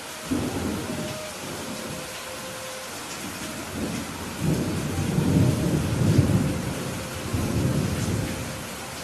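Steady rain with thunder rolling over it. A rumble starts suddenly just after the start and fades. A longer, louder rumble then swells through the middle and dies away near the end.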